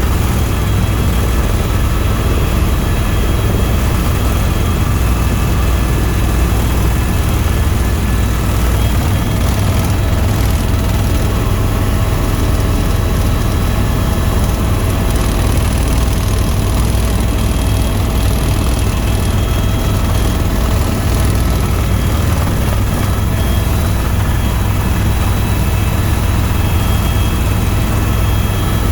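Tour helicopter in steady flight: an even, heavy low drone of rotor and turbine, with steady whining tones over it.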